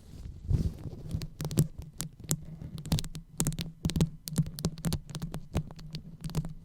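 Close-miked ASMR brain-massage sounds: quick, irregular taps and scratchy rubs on the microphone, over a low steady hum.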